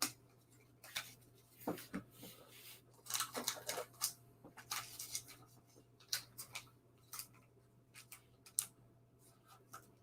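Sports trading cards and their packaging being handled: irregular small clicks and rustles, with no speech.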